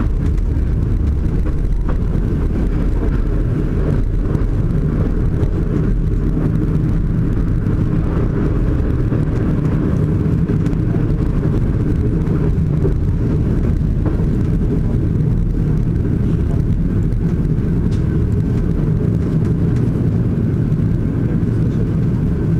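Steady low rumble of a moving passenger train, its wheels running on the rails, heard from inside the carriage at the window.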